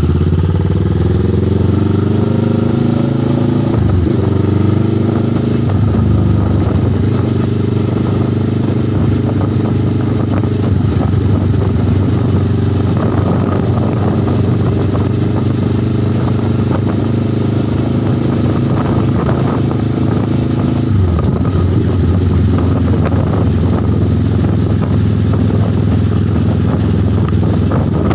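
Motorcycle engine pulling away and rising in pitch, with a gear change about four seconds in and another about twenty-one seconds in, and steady cruising in between.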